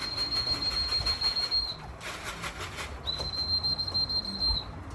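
Two long, steady, high whistles, each about a second and a half, of the kind pigeon fanciers use to call racing pigeons down into the loft. There is some light clatter between them.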